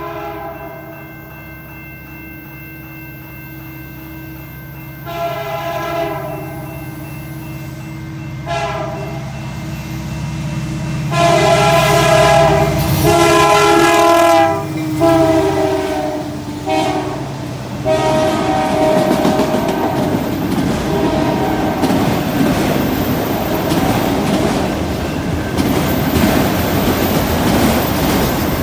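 Diesel freight locomotive horn blowing a series of long and short blasts for a grade crossing, the longest held about 11 to 14 seconds in, over the growing rumble of the approaching locomotives. From about 18 seconds in the horn stops and the steady rumble and clickety-clack of passing freight cars on the rails takes over, growing louder.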